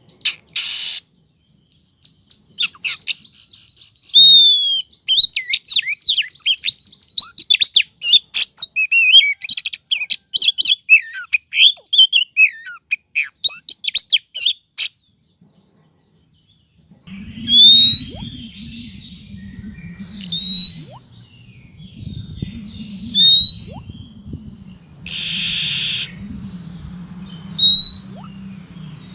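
Female oriental magpie-robin (kacer) calling: a fast, varied run of chirps and whistles that lasts about fifteen seconds. After a short pause come single rising whistles every two to three seconds over a low steady hum, with one short harsh burst among them. These are calls used to lure males.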